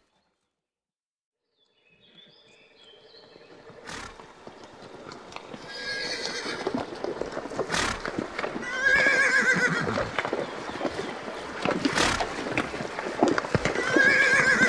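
Horse whinnying three times, each call quavering, with a few sharp knocks in between. The sound fades in after about two seconds of silence.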